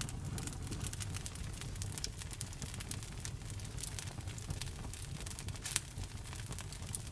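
Wood fire burning, with irregular crackles and pops over a low rumble; one louder pop near the end.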